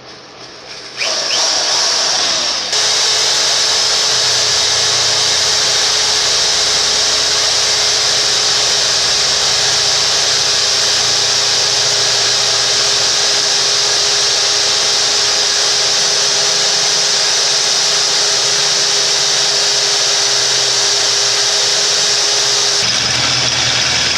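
Electric drill boring a hole through a metal plate: the motor spins up about a second in, then runs steadily under load with a constant whine over the hiss of the bit cutting.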